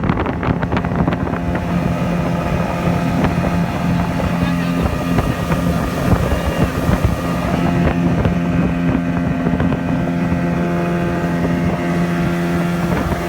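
Motorboat engine running at a steady, unchanging pitch, with wind buffeting the microphone.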